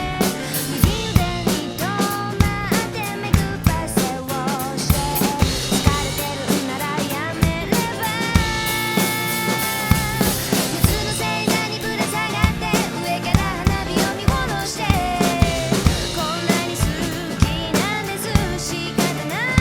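Drum kit played along to a pop song with a sung vocal, with steady bass drum and snare hits and rimshots.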